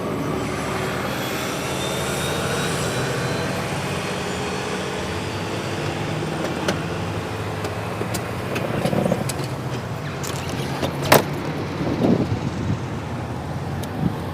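A motor vehicle's engine running steadily, with a faint whine rising slowly in the first few seconds. There is one sharp click about eleven seconds in and a few short knocks around it.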